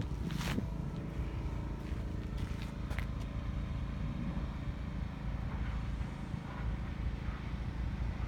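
Steady low outdoor rumble, with a couple of brief clicks near the start and about three seconds in.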